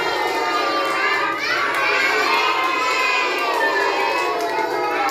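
A group of children shouting and cheering all at once, many high voices overlapping, with a shrill rising cry about a second and a half in.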